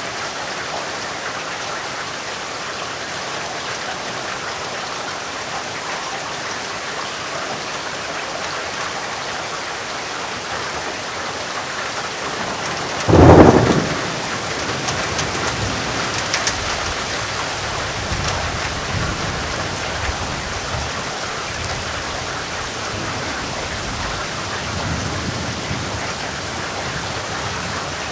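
Steady heavy rainfall. About halfway through, a sudden sharp thunderclap breaks loudly, followed by low rumbling that fades away over several seconds.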